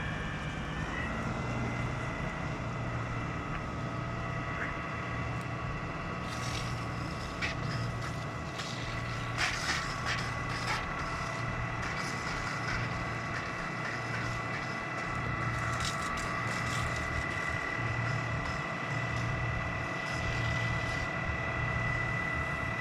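An engine running steadily with a high, constant whine. A cluster of sharp cracks and snaps comes about six to eleven seconds in.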